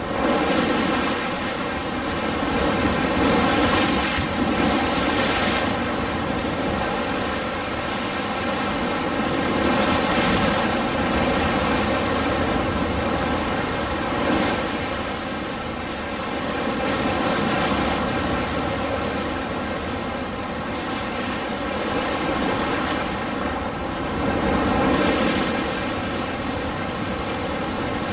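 Ocean surf: waves breaking and washing in continuously, the rush swelling and easing every few seconds.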